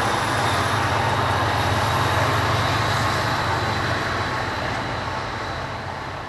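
Diesel locomotive hauling a passenger train, a steady deep engine drone with the rumbling noise of the train over it, fading out over the last two seconds or so.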